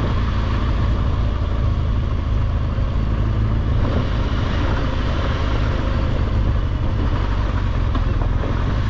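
BMW R1200GSA's flat-twin boxer engine running steadily on the move, with a continuous low rumble of engine and riding noise.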